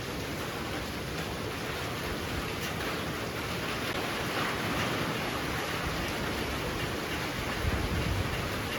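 Heavy rain pouring steadily, swelling a little about halfway through, with a brief low rumble near the end.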